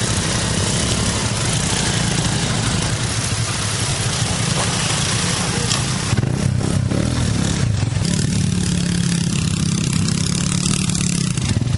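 Honda Cub step-through's four-stroke horizontal single-cylinder engine running. Its note dips about seven seconds in, then holds steady for a few seconds.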